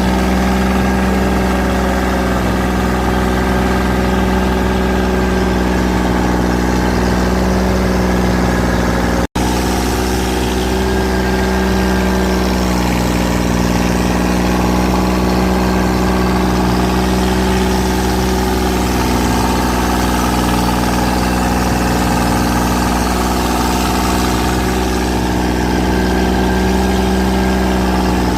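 Boat engine running steadily at a constant speed, with a momentary break in the sound about nine seconds in.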